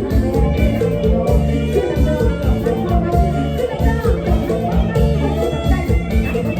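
Live Isan mor lam band music in a toei la style, with a steady driving beat and a sustained bass line.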